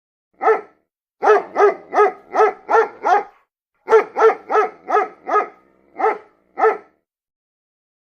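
A dog barking repeatedly: about fourteen short barks, mostly in quick runs of about three a second, with brief pauses between runs.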